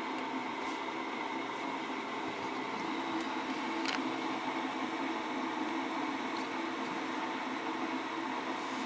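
Flashforge Adventurer 5M 3D printer's cooling fans running with a steady whir while the extruder and print bed heat up for calibration, with one faint click about four seconds in.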